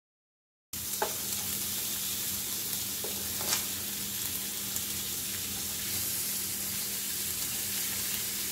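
Fish fillets sizzling in a hot frying pan, the steady frying hiss starting suddenly under a second in. A spatula scrapes and turns them in the pan, with two brief scrapes about a second and three and a half seconds in.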